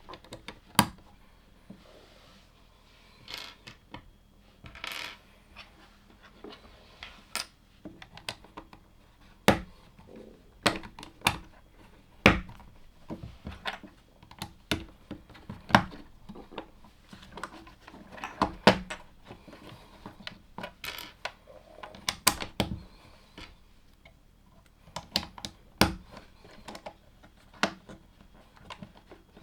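LEGO plastic bricks being handled and pressed together: irregular sharp clicks and clatters, with a few softer rustles of loose pieces being sorted.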